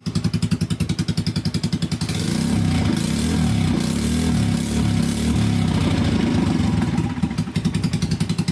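Yamaha Vino 125 scooter's single-cylinder four-stroke engine running after carburetor work: idling with an even rapid pulse, then held at higher revs for about five seconds from two seconds in, before dropping back to the pulsing idle near the end.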